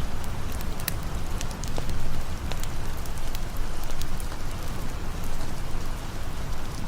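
Steady rain falling, mixed with a campfire crackling: scattered sharp pops and snaps over an even hiss.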